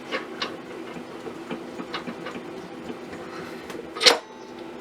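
Small clicks of metal parts being handled at a lathe tailstock while a live center is fitted, with one sharp metallic knock about four seconds in. A steady low machine hum runs underneath.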